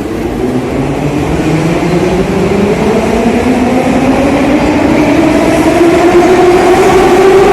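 Train's electric traction motors whining, the pitch climbing steadily as the train gathers speed, over a rail rumble that grows louder.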